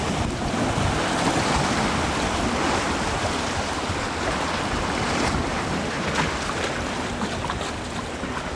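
Wind buffeting the microphone over water washing against a sailboat under way, a steady rushing noise with uneven gusts.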